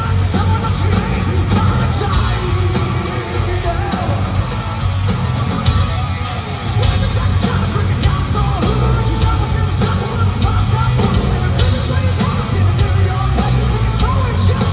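Hard rock band playing live: distorted electric guitars, drums and heavy bass, with a singer yelling out lines over the music.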